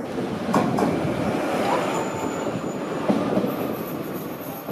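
E6 series Akita Shinkansen Komachi train pulling into a station and slowing, with two sharp clacks over the rails about half a second in and thin, high-pitched squeals as it slows.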